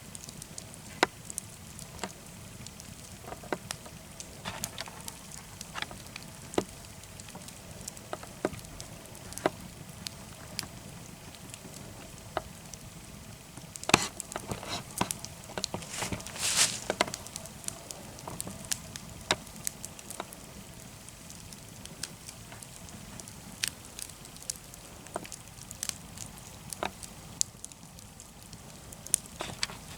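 Wood fire burning in a fire pit, crackling with irregular sharp pops and snaps over a low steady hiss. A burst of louder pops comes about halfway through.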